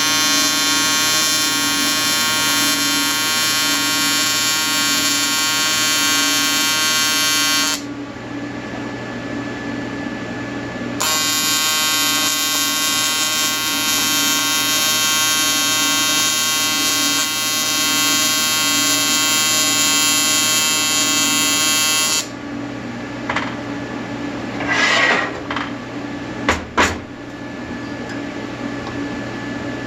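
TIG welding arc buzzing steadily in two runs, the first about eight seconds long and the second about eleven, with a pause of a few seconds between. After the arc stops come a brief scraping swish and a couple of sharp clicks.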